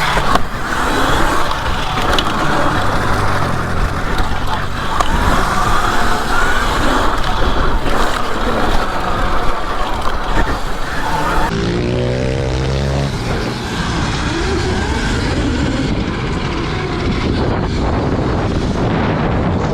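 Dirt bike riding on a motocross track, heard as a steady noisy rush with wind on the microphone. About twelve seconds in, a bike passes close with a distinct motor whine that glides in pitch.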